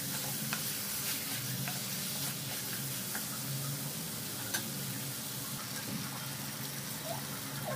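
Chicken pieces and chopped tomato frying in oil in a non-stick kadai, sizzling steadily while a wooden spatula stirs them, with scattered light taps and scrapes of the spatula against the pan. A faint steady low hum sits underneath.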